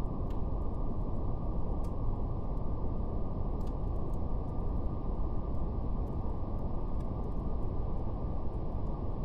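Steady brown noise, cut off above the low-middle range, with a faint fire crackle: a few soft pops scattered over it.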